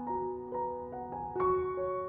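Soft background piano music: a slow melody of held notes.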